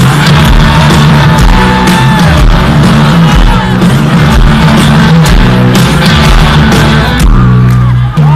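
Rock band playing live and loud, with a steady drum beat, bass and guitar.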